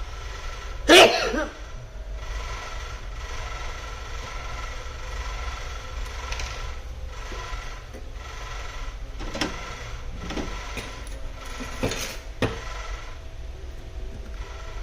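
Small hard objects, tools or parts, handled on a work surface: one loud clatter with a brief ring about a second in, then a few light clicks and knocks near the end, over a steady hum.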